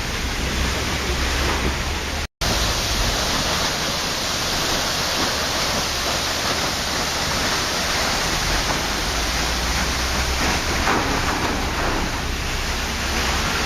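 Waterfall: a steady, even rush of falling water. It cuts out completely for a split second about two seconds in, then carries on unchanged.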